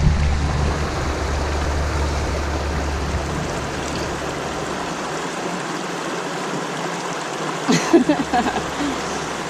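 Shallow stream water rushing steadily over small rock ledges, with a low rumble in the first few seconds. A brief voice-like sound comes about eight seconds in.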